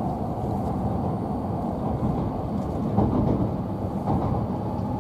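Steady low rumble of a Tohoku Shinkansen train running along the line, heard inside the passenger car.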